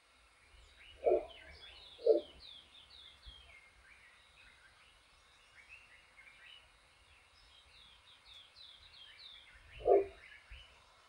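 Wild birds calling: a run of quick, falling high chirps and twitters, broken by three short, loud, low calls about one, two and ten seconds in.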